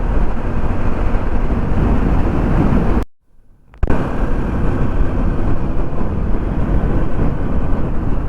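Vehicle and road noise with wind rumbling on the microphone while riding, a dense steady roar that cuts out abruptly for under a second about three seconds in.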